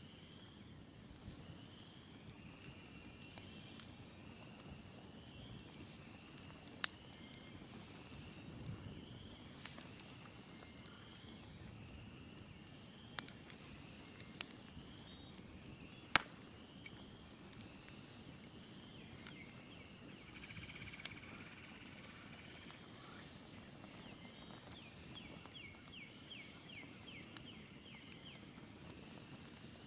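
Smoldering campfire giving a few sharp pops, the loudest about halfway through. Behind it a high chirp repeats about once a second through the first half, and near the end a short rapid trill sounds.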